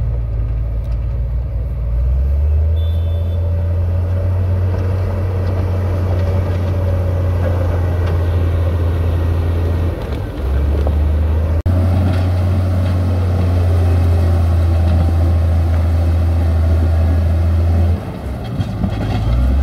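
Heavy diesel construction machinery running with a deep, steady rumble, broken by a sudden cut a little past halfway.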